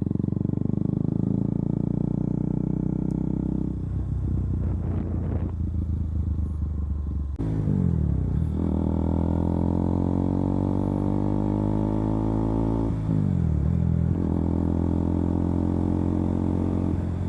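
KTM Duke 200's single-cylinder engine running as the motorcycle rides along. About seven seconds in the engine note drops suddenly, then the revs climb steadily for several seconds, dip again around thirteen seconds and climb once more, as with gear changes while accelerating.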